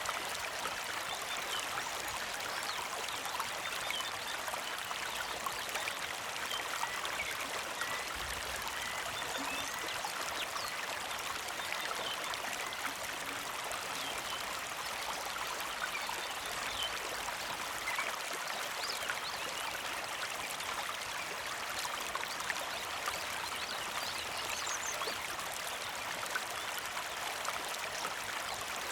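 Small mountain creek flowing and trickling steadily, with faint short bird chirps scattered throughout.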